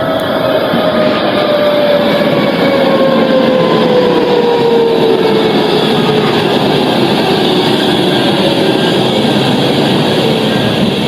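Tram running by close: a loud, steady rolling noise of wheels on rails, with a motor whine that falls slowly in pitch.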